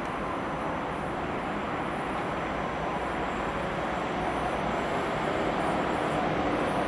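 An ICE train rolling into the station, a steady rumble and hiss of wheels on rails that grows slowly louder as it approaches.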